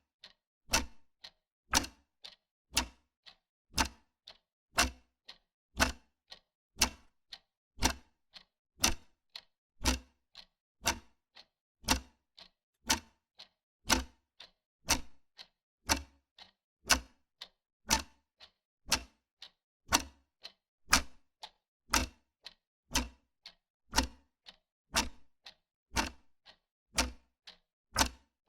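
Wall clock ticking steadily, a louder tick about once a second with a fainter one between, in a regular tick-tock.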